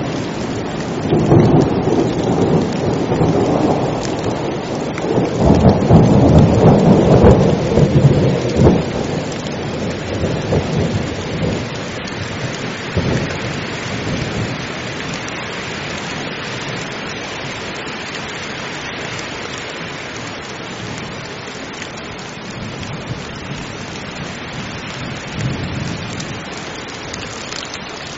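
Heavy rain falling steadily, with a long roll of thunder that starts about a second in, is loudest a few seconds later and dies away before halfway, leaving rain alone.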